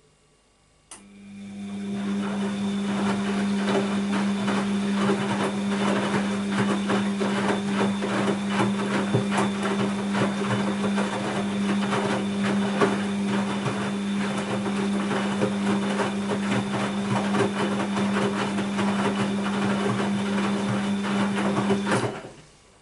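Bosch WAB28220 washing machine running mid-cycle: a click about a second in, then a steady low hum with busy rattling and clicking, cutting off suddenly near the end.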